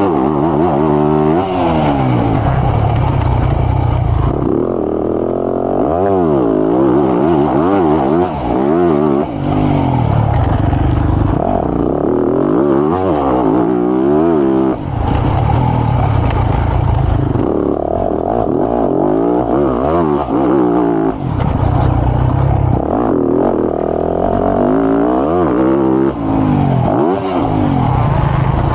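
Motocross bike engine heard from on the bike, revving hard and backing off over and over, its pitch climbing and dropping as the throttle opens and closes around the track.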